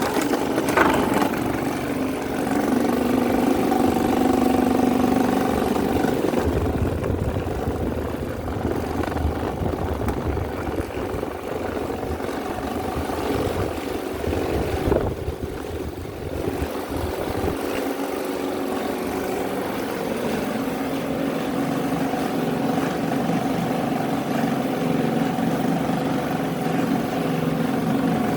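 Several electric fans running together: a steady motor hum with the rush of air from the spinning blades. The mix of tones shifts about a quarter of the way in, and again after a short click about halfway through.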